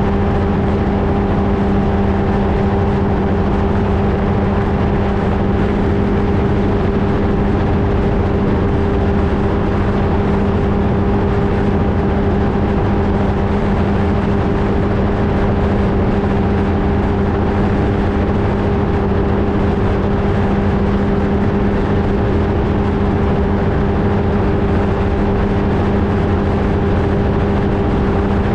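Flightstar II ultralight aircraft's engine and propeller running at a steady, unchanging power, a constant pitched drone with a low rumble of wind on the microphone.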